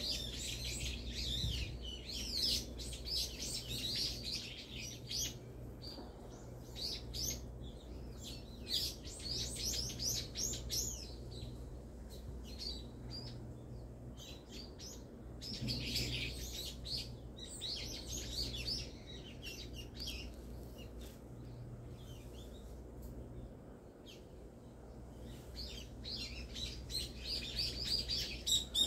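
Small birds chirping and twittering in several bouts of quick, high calls, with quieter stretches between, over a faint steady low hum.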